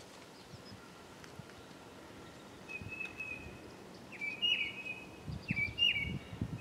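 Birds calling outdoors: a held whistled note about three seconds in, then a run of short, quick chirps. A few soft low thumps sound near the end.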